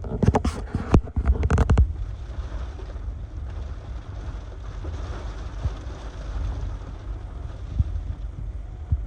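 Hurricane-force wind from Hurricane Ian rushing and buffeting the microphone, with a deep steady rumble. Several sharp hits come in the first two seconds, then the wind runs on steadily with small gusts.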